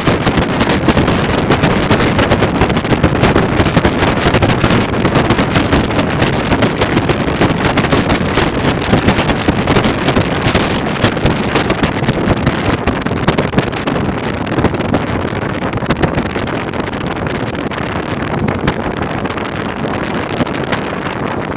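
Wind buffeting the microphone: a loud, gusty rushing with crackles that eases a little in the second half.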